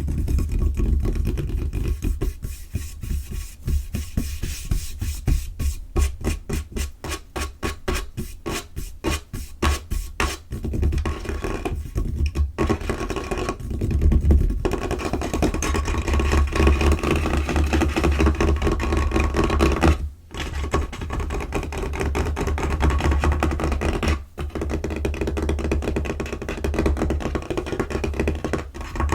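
Fingers and fingernails tapping fast on a tabletop, close-miked, with rapid runs of many taps a second. These give way to denser scratching and rubbing on the surface.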